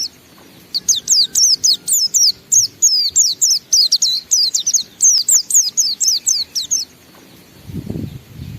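A white-eye (pleci) singing its long 'ngalas' song: a fast, unbroken string of high, downward-sliding chirps, about six a second, held for roughly six seconds before it stops. A low rumble follows near the end.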